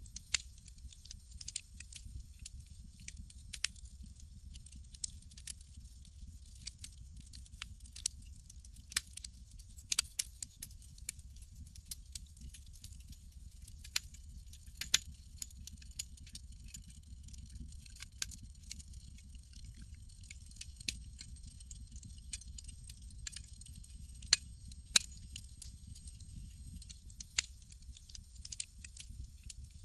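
Campfire crackling: irregular sharp pops and snaps over a steady low rumble and a soft hiss.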